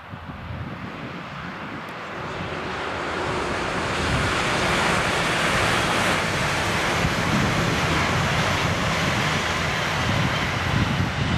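DB Twindexx double-deck electric regional train passing at full speed: a rushing din of wheels on rails and air that swells over the first four seconds as it approaches, then stays loud as the carriages go by.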